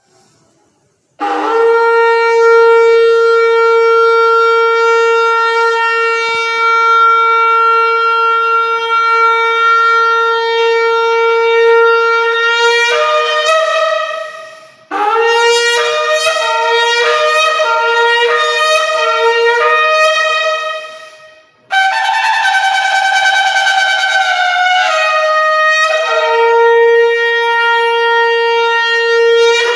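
Shofar (ram's horn) blown in three blasts: a long held low note of about twelve seconds that breaks into a few higher notes at its end, then a run of short, choppy notes, then a blast that starts higher and settles back onto the long low note.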